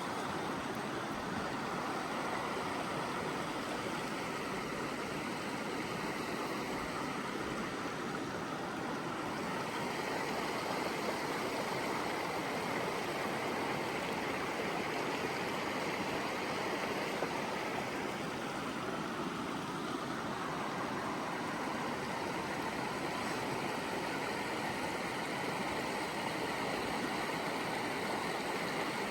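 Steady rush of a fast-flowing creek, an even water noise that holds constant throughout.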